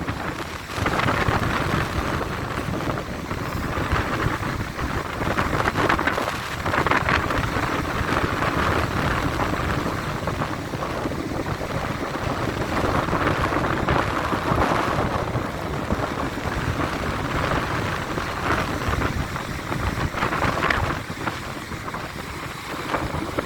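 Storm surf: waves breaking one after another in a continuous wash that swells and eases every few seconds, with wind buffeting the microphone.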